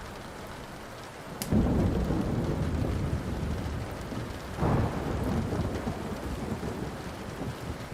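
Thunder rumbling over steady rain: a low roll swells suddenly about a second and a half in and surges again near the five-second mark, with a single fire crackle just before the first roll.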